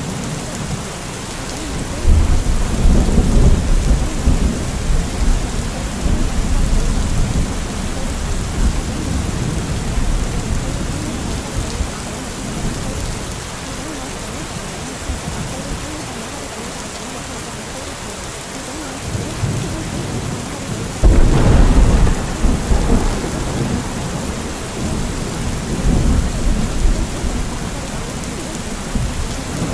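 Steady rain with thunder. A loud rumble breaks in suddenly about two seconds in and rolls away over several seconds, and a second one comes about two-thirds of the way through.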